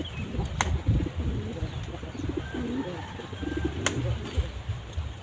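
Domestic pigeons cooing, a run of low warbling coos one after another, with two sharp clicks, one near the start and one near the end.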